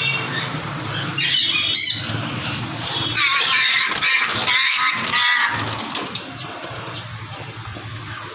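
Parrot squawking harshly in two bouts, a short one about a second in and a longer one a couple of seconds later, over a low steady hum.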